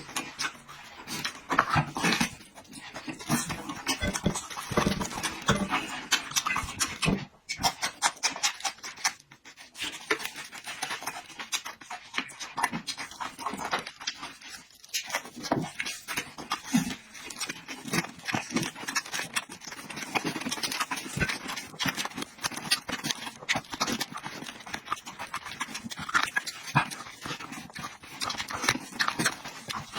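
A person eating close to the microphone: chewing and lip-smacking, a dense run of wet clicks and smacks, with a short quieter break about seven seconds in.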